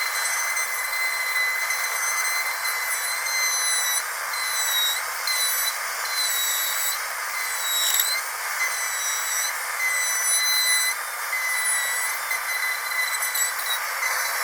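Dentist's drill whining at a steady high pitch over a hiss, the pitch dipping briefly now and then, most clearly about eight seconds in.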